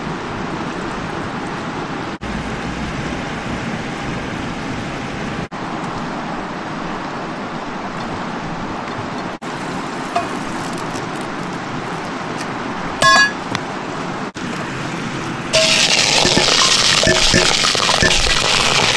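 Steady hiss of a cooking stove under a pot of dumplings boiling in broth, heard in short cut-together stretches. About two-thirds of the way through comes a brief ringing metal clink, and in the last few seconds a louder, brighter sizzle of cooking takes over.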